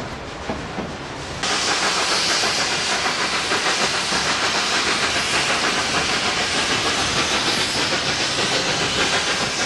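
Narrow-gauge steam train rolling on the rails, then, about a second and a half in, the louder steam hiss of the steam locomotive working upgrade, with an even pulse in the noise.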